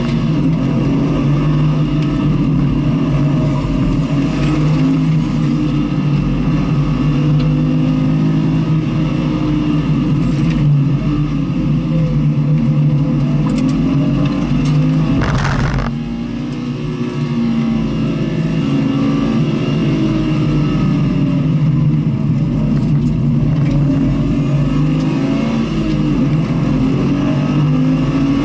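Onboard engine sound of a vehicle lapping a race circuit under load, its pitch rising and falling as the revs change through corners and gears. A little past halfway there is a short sharp noise, and the engine eases off briefly before pulling again.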